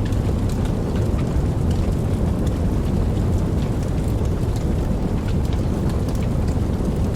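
Steady rain falling, a deep constant rushing with faint scattered drop ticks on top.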